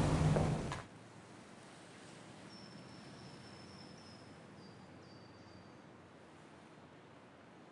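A louder sound cuts off abruptly within the first second, leaving faint room tone. From about two and a half to six seconds in, a small bird chirps faintly several times, thin and high-pitched, stepping down in pitch.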